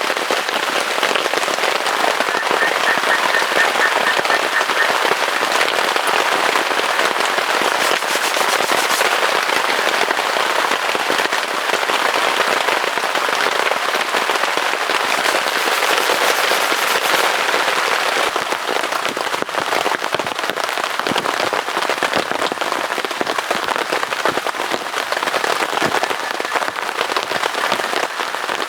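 Steady heavy rain, a dense crackle of drops striking a surface, even throughout.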